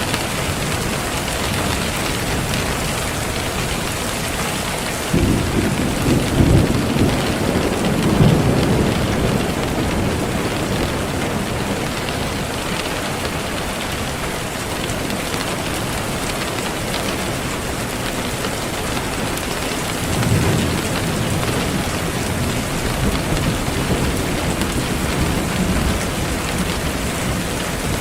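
Steady heavy rain falling, with thunder rumbling low twice: once beginning suddenly about five seconds in and running for several seconds, and again about two-thirds of the way through.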